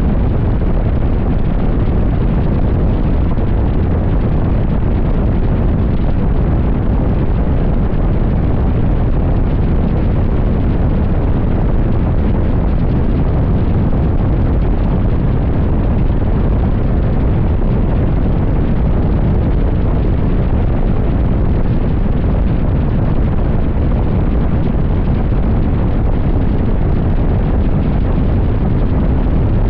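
Heavy, steady wind noise buffeting the microphone of a motorcycle cruising at highway speed, with the bike's engine and road noise running underneath.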